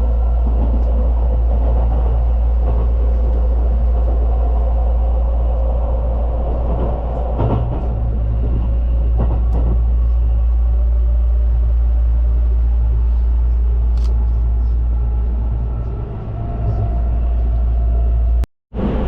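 Train running, a steady low rumble with faint steady tones above it; the sound cuts out abruptly for an instant near the end.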